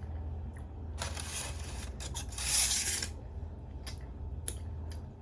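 Crinkly snack packaging being handled, rustling in two bursts, the second longer and louder, followed by a few light clicks, over a steady low hum.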